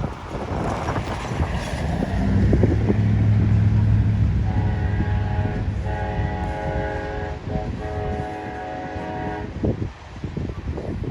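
Diesel locomotive passing with a low engine throb, then its multi-chime air horn sounding a steady chord for about five seconds, with a brief break partway through.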